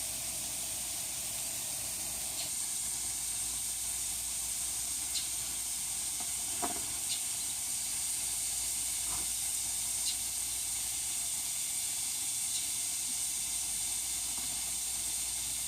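Steady high-pitched background hiss, with a few faint clicks.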